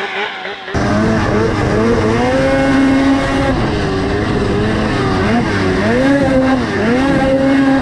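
Race snowmobile's 600 two-stroke engine at full throttle, its pitch climbing, holding and dropping several times as the throttle is opened and eased off through the course. The sound gets suddenly louder and fuller under a second in, with a rush of noise underneath.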